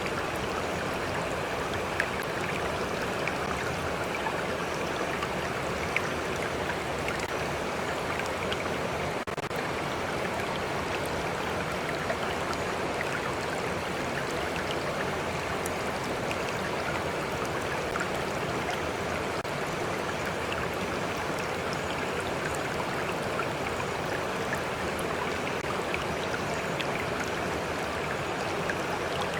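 Stream flowing steadily, a constant rush of running water with small scattered drips and splashes.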